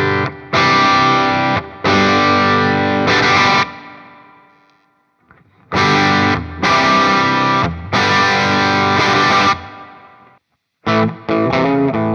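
Electric guitar with humbucker pickups through the Flamma FS06 preamp's Marshall Plexi-style clean channel, strumming full chords with a slight edge of breakup. A phrase of four strummed chords rings out and fades, the phrase repeats, and faster, choppy chords begin near the end.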